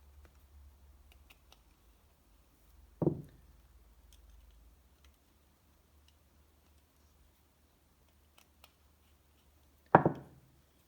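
Hand work on a workbench: faint scattered clicks, and two short dull knocks about seven seconds apart as parts or tools are set down.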